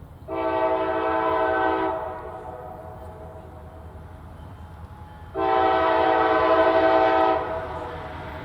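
Freight locomotive's multi-chime air horn sounding two long blasts, about a second and a half and two seconds long, several seconds apart, over the low rumble of the moving train. Long blasts like these open the standard grade-crossing horn signal.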